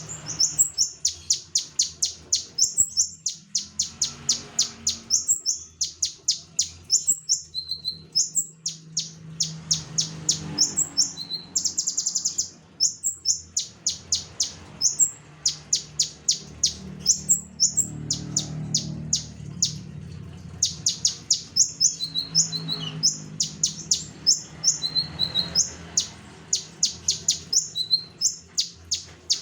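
Konin songbird singing busily in rapid runs of sharp, high chirps, several a second, broken by short pauses, with a brief very fast trill about twelve seconds in. A faint steady low hum lies under the song.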